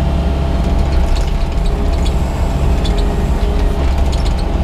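Yanmar excavator's diesel engine running steadily under work, with faint clicks here and there.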